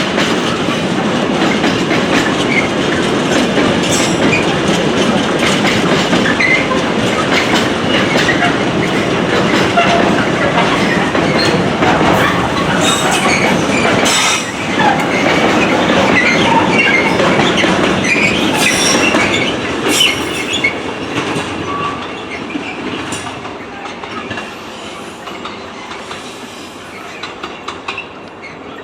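A train passing close by, its wheels rattling over the rail joints with some metallic squealing. The noise holds steady for most of the pass, then eases off over the last several seconds as the train moves away.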